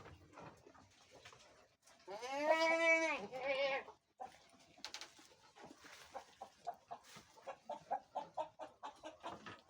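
A goat bleats, one long call that rises and falls with a short second note tacked on straight after. It is followed by a run of short, quick sounds, several a second, softer than the bleat.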